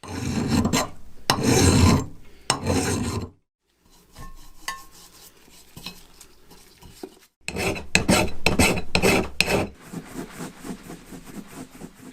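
Rasping and scraping of hand tools on a rusty axe head, in short clips that cut off abruptly, with repeated filing strokes in the loudest stretch.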